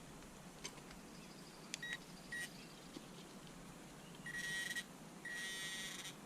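Metal-detecting pinpointer giving a steady high-pitched beep: two short beeps about two seconds in, then longer beeps near the end as it closes in on a buried target.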